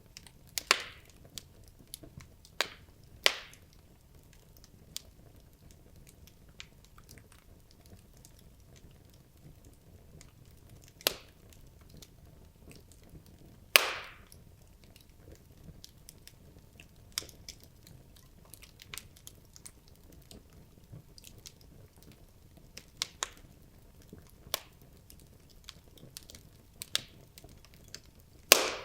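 Wood logs burning in a fireplace: a low steady noise from the fire under irregular crackling, with many small ticks and a handful of much louder sharp pops.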